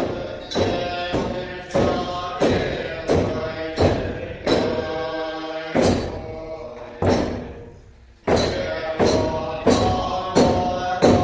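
Buddhist monks' morning prayer: chanting voices held on steady notes over a beat of struck percussion, about one and a half strikes a second, each ringing out. The beat falls away and pauses briefly about eight seconds in, then resumes.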